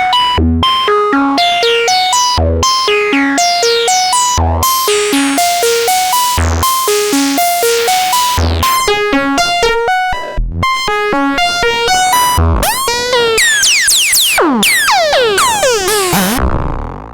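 Novation Bass Station II analog monosynth playing a driving eighth-note sequencer pattern of short, repeating pitched notes with bright sweeping overtones. In the last few seconds the notes slide in pitch, then the sound fades out.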